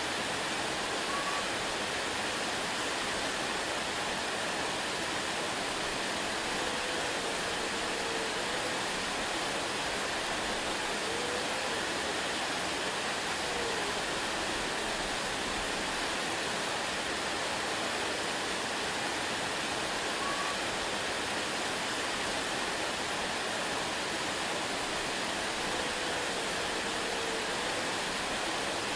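Waterfall rushing in a steady, unchanging hiss of falling water. A few faint, brief wavering tones rise out of it now and then.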